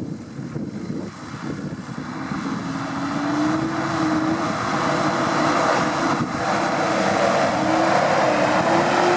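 Off-road vehicle's engine revving, its note climbing and wavering as it grows steadily louder on approach.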